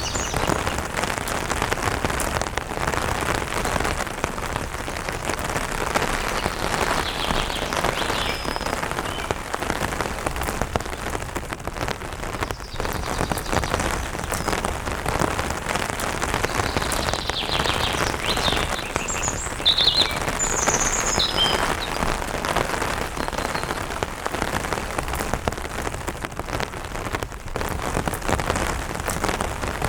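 Steady light rain spattering on an umbrella canopy, with a few short bird chirps about halfway through.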